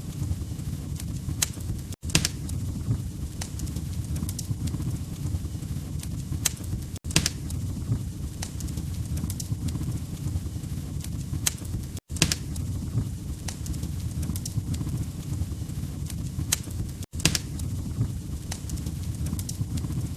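Log fire crackling in a fireplace: frequent sharp pops and snaps over a steady low rumble. The sound cuts out for an instant about every five seconds.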